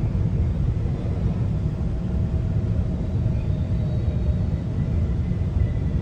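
GO Transit commuter train running between stations, heard from on board: a steady low rumble of wheels on the track, with faint thin high squealing tones coming in during the second half.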